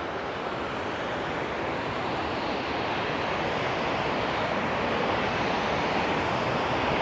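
Rushing roar of a high waterfall, steady and slowly growing a little louder.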